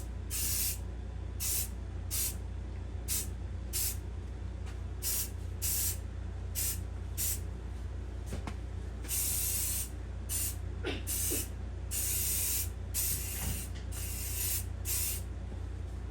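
Spray primer being applied as a light coat to a bare engine block: a long series of short hissing spray bursts, with two longer passes in the second half. A steady low hum runs underneath.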